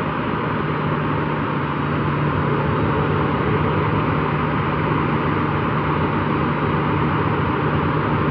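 Boeing 737-400's CFM56-3 turbofan engines running steadily on the ground during an engine run-up, a loud even rushing noise with a low hum beneath.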